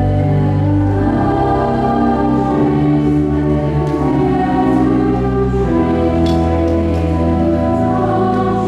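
Choir singing slow, held chords over steady sustained bass notes from its accompaniment.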